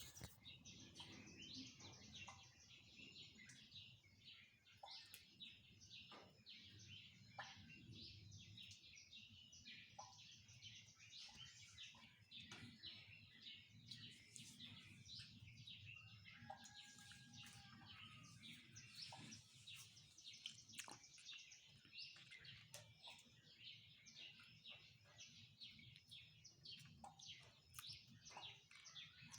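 Faint chorus of many small birds chirping and singing at once, a dense, unbroken stream of quick high chirps, over a soft low steady rumble.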